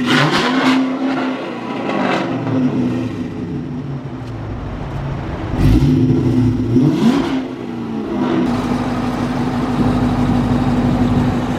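Dodge Charger with a loud aftermarket exhaust, its pipe split into four tips, being revved. There is a short blip at the start, another around two seconds in, and a longer rev rising and falling past the middle, then the engine settles to a steady idle.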